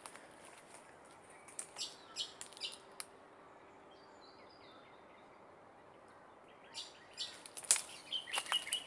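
Small birds chirping in short high calls, in two groups with a quiet stretch between, and one sharp click near the end.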